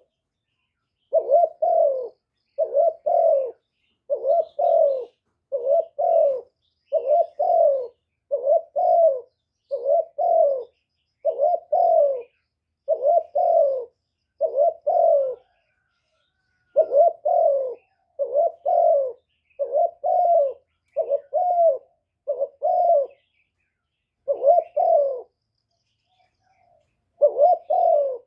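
Spotted dove cooing over and over in short low notes, mostly in pairs about every second and a half, with a few longer pauses. It is the call of a decoy bird, used to set caged male doves calling.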